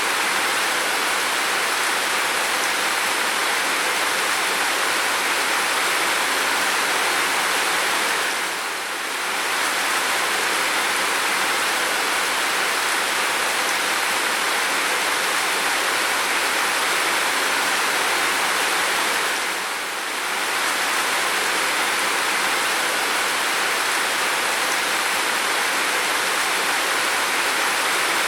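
Steady heavy rain, an even hiss with no distinct drops, dipping briefly in level about 9 and 20 seconds in.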